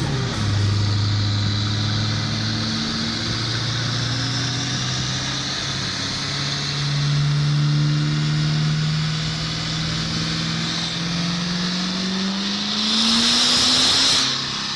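Diesel pickup truck running a pull on a chassis dyno: the engine note climbs slowly and steadily as the revs build, with a loud hiss near the end before it cuts back.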